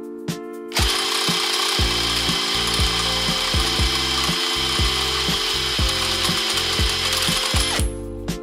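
A small motor running with a harsh, steady mechanical whirr, starting about a second in and cutting off suddenly near the end. Background music with repeated drum hits plays throughout.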